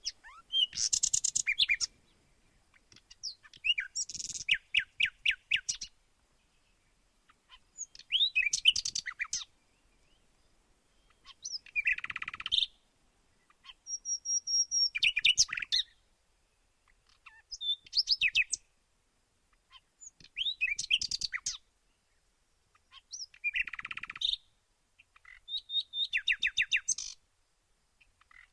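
Songbird singing in a run of about nine short phrases, each one to two seconds of rapid trills and whistled notes, with brief pauses between them.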